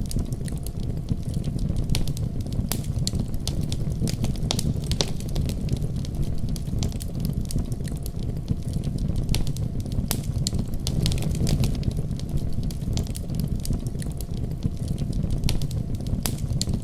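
Wood fire crackling and popping with scattered sharp snaps, over a steady deep rumble of a winter storm.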